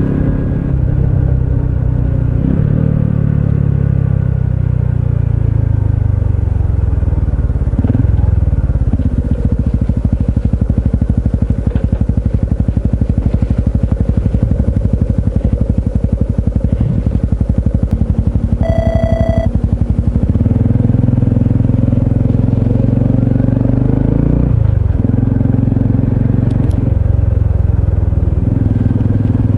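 Honda CT125 Hunter Cub's air-cooled single-cylinder engine slows down, then idles with an even chug for about twelve seconds. It then pulls away and runs steadily again. There is a short beep just before it pulls away.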